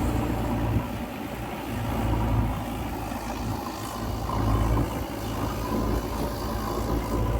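Diesel engine of a JCB 3DX backhoe loader running under working load, its drone swelling and easing every couple of seconds as the hydraulics dig and lift.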